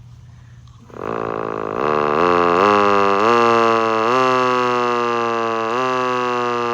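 Darley Model 2 five-port electric outdoor warning siren, its outer cover off, being growled. About a second in it starts with a low tone that climbs in a series of short steps as power is pulsed to it, then slowly winds down in pitch.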